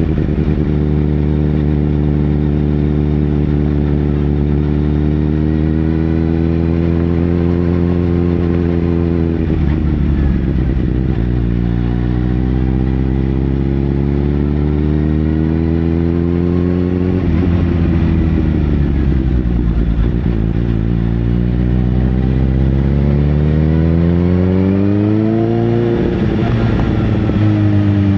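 Sportbike engine running under way: a steady engine note that dips briefly twice, then climbs gradually as the bike accelerates, and drops away near the end.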